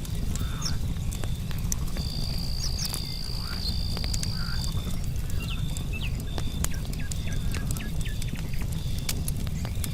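Campfire crackling with frequent sharp pops over a low rumble, under a night chorus of insects. A cricket chirps in short regular pulses, and a higher continuous trill starts about two seconds in and stops about three seconds later.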